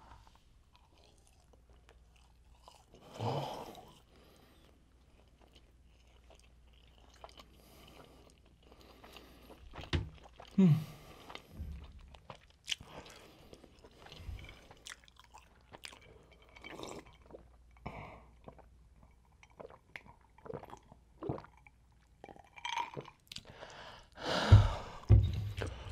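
A person chewing a McDonald's Chicken McNugget close to the microphone: wet mouth clicks and crunching, with a few louder mouth sounds, the loudest near the end.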